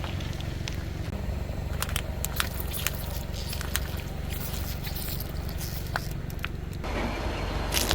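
Car engine idling steadily, with scattered small cracks and clicks over it; a louder rushing noise comes in near the end.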